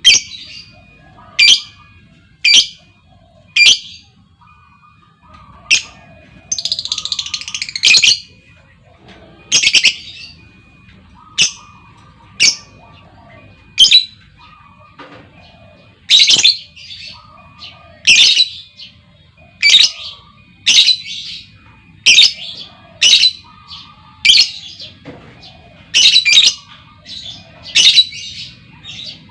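Female lovebird giving sharp, loud, high calls about once a second at uneven intervals, with one longer chattering burst about seven seconds in.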